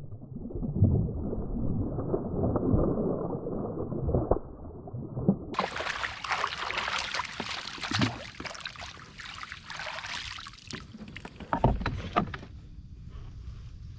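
Water sloshing and scattered knocks on a fishing kayak, in several joined clips; muffled for the first few seconds.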